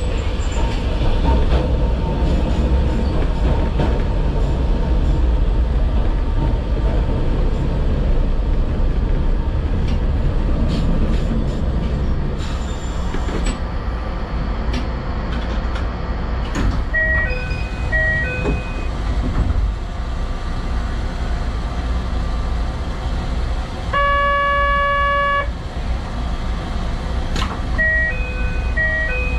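A narrow-gauge electric train stands at a station with a steady low hum from its equipment. A short two-tone electronic chime sounds twice, and a single horn blast of about a second and a half comes a few seconds before the end.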